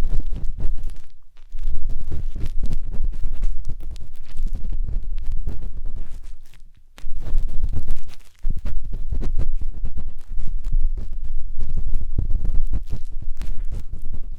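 Matchstick rubbing and scratching inside the silicone ear of a 3Dio binaural microphone, close and rumbling, with fine clicks. The strokes pause briefly about a second in and again around six to eight seconds in.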